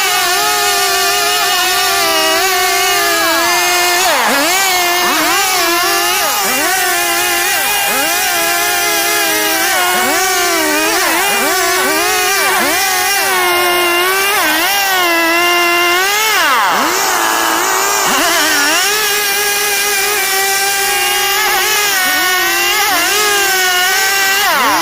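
STIHL chainsaw running at high revs while cutting through wood board, its pitch dipping briefly again and again as the chain bites under load and then recovering.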